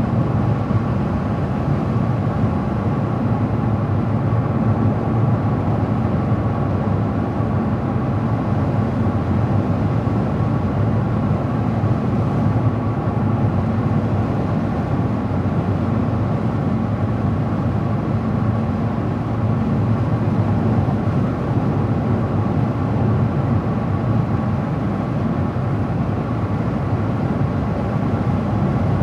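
A car driving at a steady speed: a constant hum of engine and tyre noise on the road, with no change in speed or pitch.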